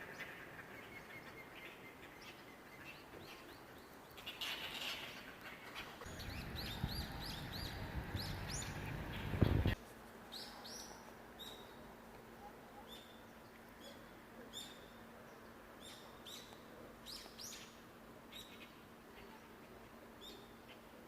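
Mountain birds chirping and singing in short, repeated calls. In the first half a low rumbling noise rises under them and cuts off suddenly just under ten seconds in, after which the chirps carry on over a faint steady hum.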